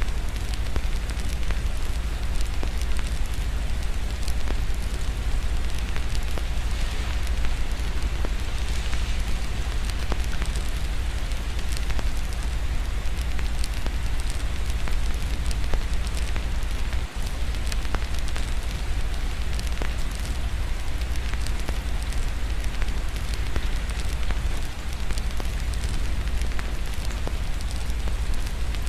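Fireplace wood fire crackling with many small irregular pops over a steady hiss of rain, with a constant low rumble underneath.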